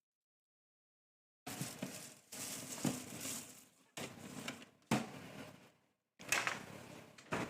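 Crisp crinkling and crunching of lettuce leaves in about six short bursts, each under a second long, starting after a second and a half of silence.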